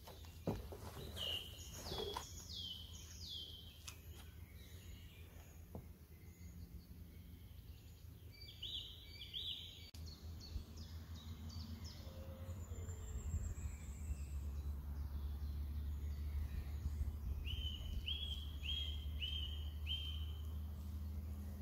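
A songbird singing three short phrases of repeated, down-slurred whistled notes, with a steady low rumble on the microphone that grows louder about halfway through. A couple of sharp knocks near the start.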